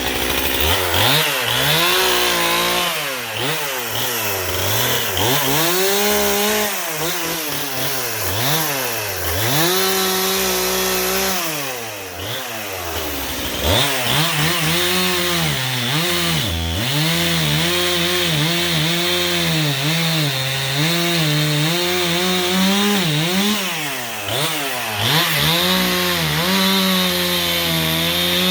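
Chainsaw cutting firewood logs, the engine speed repeatedly rising and sagging as the chain bites into the wood. It drops briefly toward idle about twelve seconds in, then runs at a high, fairly steady speed through the cut.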